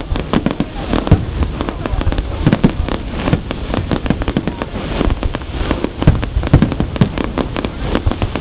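Fireworks display: a dense, continuous barrage of shell bursts and crackling reports, many loud bangs a second over a steady rumble.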